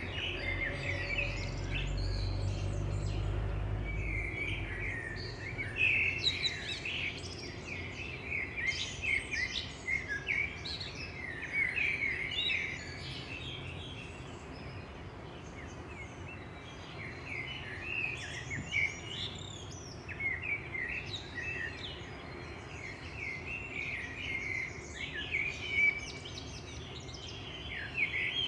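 Several birds singing and chirping, many short calls overlapping throughout. A low rumble sounds underneath during the first few seconds.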